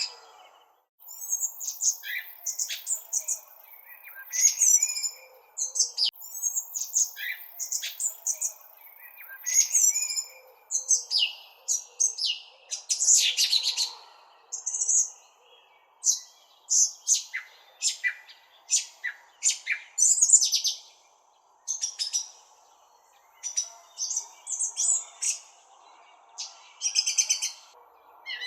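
Birds chirping: a continuous series of short, high chirps and quick trills, one after another with brief pauses, over a faint steady background hiss.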